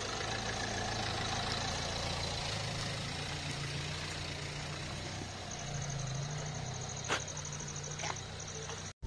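Renault Duster SUV's engine running at low speed as it drives slowly past and away on a dirt track, a steady low hum. A couple of short clicks near the end.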